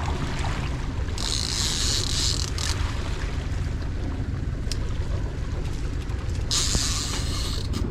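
Fishing reel's ratchet clicker buzzing as line is pulled off it, once about a second in for a second and a half and again near the end, over a steady low rumble of wind and water.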